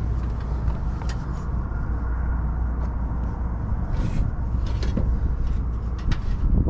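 Steady low background rumble, like distant traffic, with a few light clicks and taps of hardware being handled inside an HVAC unit.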